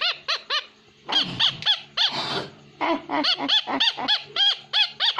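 Pet parrot calling in a rapid run of short, rising-and-falling squawks, about three a second, with a brief pause about a second in and a harsher, noisier call around two seconds in.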